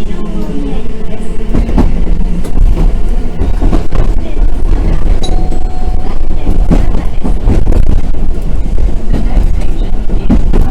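Randen tram running on the track, heard from inside the car: a steady low rumble with frequent irregular clicks and knocks from the wheels and rails, and a faint steady hum.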